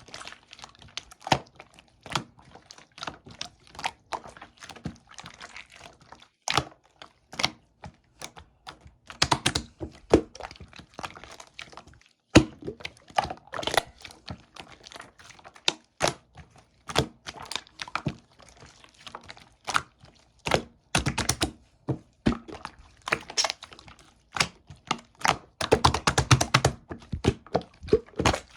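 Slime being pressed, stretched and squished by hand, with irregular sticky clicks and popping air pockets, bunched in quick crackling runs.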